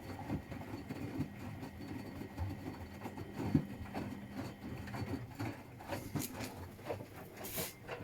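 Washing machine running a wash: a steady motor hum under irregular soft thuds and knocks of the laundry tumbling in the turning drum, with a few sharper clicks near the end.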